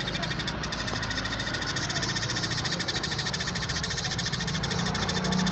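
Eurasian tree sparrows chattering in a fast, continuous run of harsh chirps, the excited calling of sparrows squabbling, over a steady low hum.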